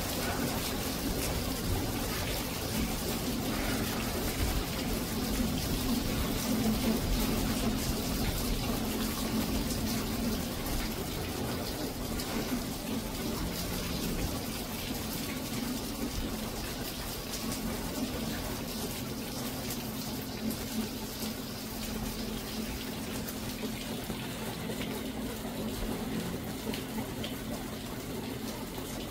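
Steady monsoon rain falling, a continuous hiss of drops with fine pattering through it.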